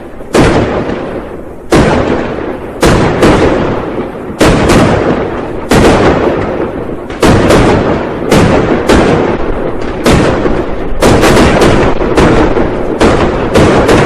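New Year firecrackers and fireworks going off one after another: more than a dozen loud bangs at irregular intervals, each trailing off in a rumbling echo that runs into the next.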